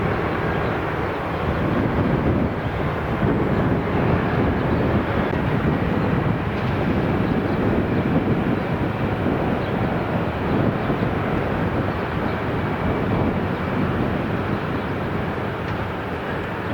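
Steady, loud aircraft noise: engine drone and rushing air that do not let up.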